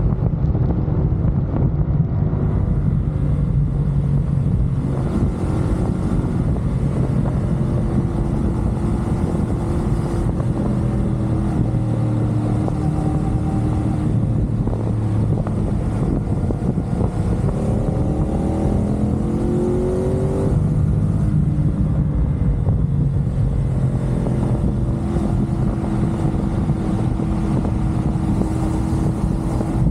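CFMoto 450SR parallel-twin engine running at expressway speed, with wind rushing over the microphone. Past the middle the engine pitch climbs for a few seconds, then drops back abruptly.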